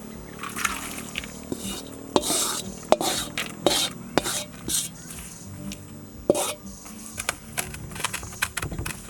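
A utensil scraping and knocking against a pan as food is stirred while it fries, in irregular strokes over a faint sizzle.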